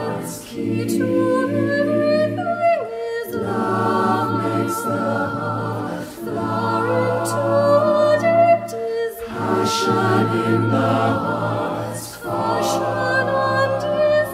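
Choral music: a choir singing long held chords in phrases of about three seconds, with short breaks between them.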